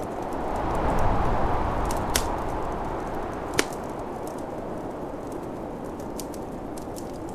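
Wood fire crackling with small ticks and two sharp pops, one about two seconds in and a louder one about three and a half seconds in, over the steady rush of snowstorm wind that swells briefly near the start.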